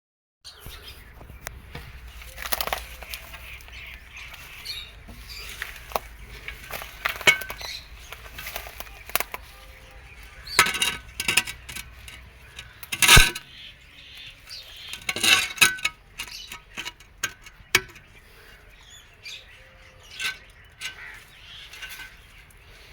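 Lovebirds scuffling and flapping their wings, with irregular sharp clicks and short noisy bursts, the loudest about halfway through. A low hum underneath stops about halfway through.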